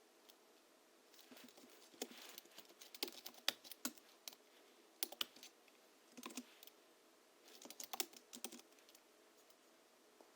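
Typing on a Hansung GHL-5X mechanical keyboard tuned for a deep, thocky sound, with Krytox-lubed springs and 50 g rubber domes: quick runs of keystrokes starting about a second in, broken by short pauses.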